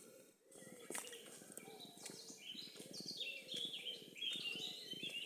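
Songbirds singing in woodland, a run of quick high warbling phrases in the second half, over the footsteps of someone walking on the path.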